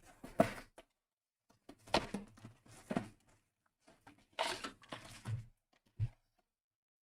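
Trading cards and packs being handled on a table: several short rustling, sliding swishes, then a soft thump about six seconds in as something is set down.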